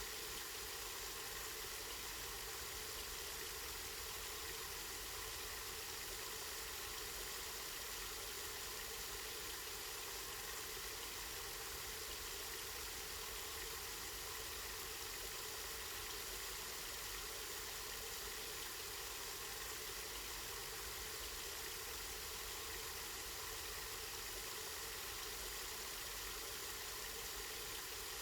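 Steady, continuous rush of water flowing from a spring.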